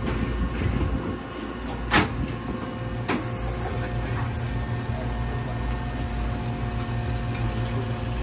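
Electric railcar's doors sliding shut, with a knock about two seconds in and a second knock a second later, then the car moving off with a steady low hum and a faint high whine that slides down in pitch.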